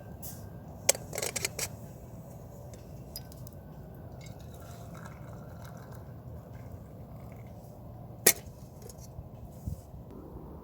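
A few sharp clinks and knocks of small hard objects, like utensils or cookware touching: one about a second in, a short cluster just after, and a single loud one about eight seconds in, over a steady low background rumble.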